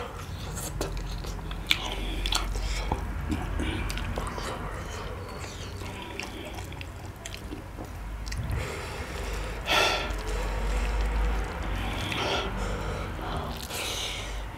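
A man chewing a mouthful of rice and mushroom curry close to the microphone, with many small clicks from the mouth and fingers mixing rice on a steel plate.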